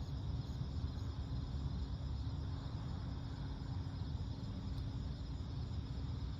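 Steady night-time chorus of crickets, a continuous high trilling, over a low, even background rumble.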